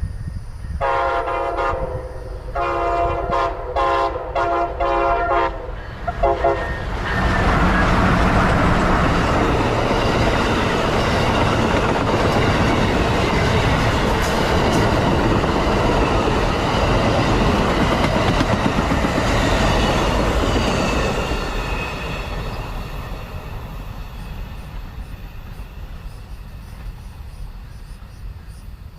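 Amtrak passenger train sounding its horn in a series of blasts over about six seconds, then passing close by with a loud rumble and clatter of wheels on rail that fades away in the last several seconds.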